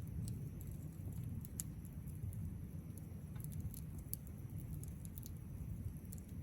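Wood fire burning in a fire pit, crackling with irregular sharp little pops over a steady low rumble.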